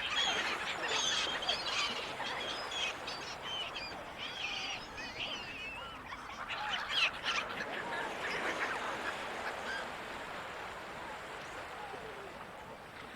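Seagulls calling, many short overlapping cries, thick at first and thinning out after about eight seconds, over a steady wash of ocean surf.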